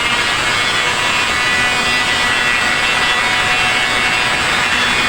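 Electric sander running steadily against a ceiling: a constant motor whine over a rough sanding hiss.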